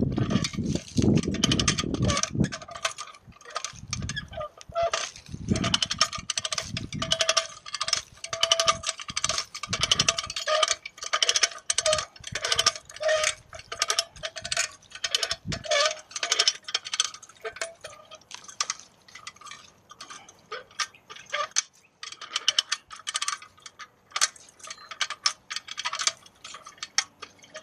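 Hand-cranked come-along winch being ratcheted, its pawl clicking rapidly in uneven runs with metal chain clinking, and some low knocks during the first several seconds.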